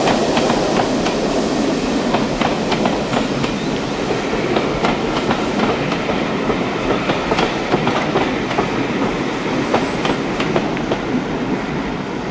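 A train running along the rails, its wheels clicking over the rail joints with a steady rumble and rattle underneath.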